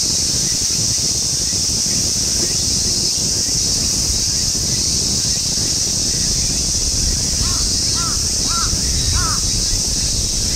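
Outdoor ambience: a steady high-pitched drone, like insects, over low wind rumble. Near the end a bird calls four times in quick succession with short, arched, caw-like notes.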